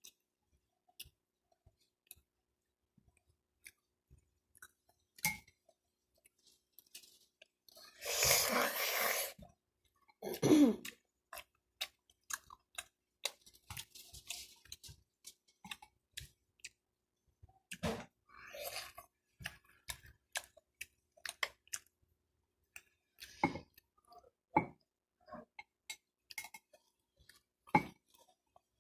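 A person chewing and eating baked mac and cheese and ham up close, with many small wet mouth and utensil clicks. About eight seconds in there is a louder rush of noise lasting over a second, then a short low voiced sound.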